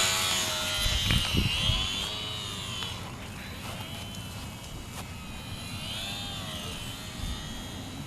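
Carbon Cub S2 RC airplane's electric motor and propeller whining in flight, the pitch rising and falling as the throttle changes. It is loudest at first and fades after a few seconds as the plane flies farther off.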